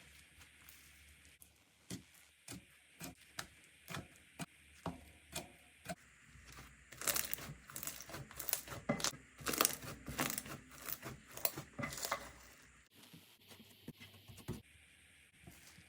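Slime being handled by hand: a run of single sharp sticky clicks about two a second, then several seconds of dense crackling and popping, which dies away near the end.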